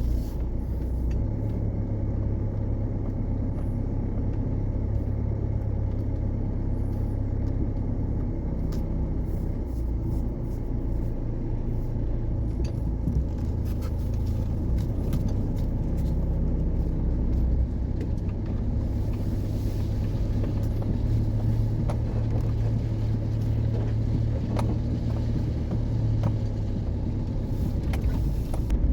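A car driving on the road: a steady low engine and road rumble with no change in pace, plus a few faint small ticks.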